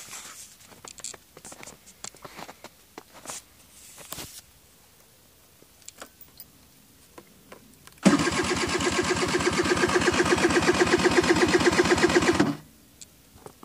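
SYM Jet scooter cranking over on its electric starter in the cold, after a few faint clicks. It cranks for about four and a half seconds in rapid even pulses, then stops suddenly without the engine catching.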